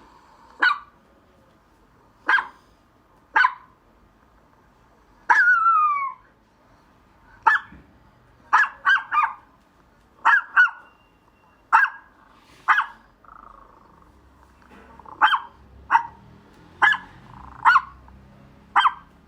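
A dog barking in short, sharp barks, irregularly spaced and some in quick pairs, with one longer bark about five seconds in that slides down in pitch.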